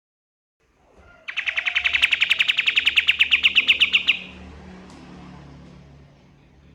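Kapas tembak bird singing in full voice: a loud, fast trill of sharp, evenly repeated notes, about ten a second. The trill starts about a second in and stops abruptly after about three seconds.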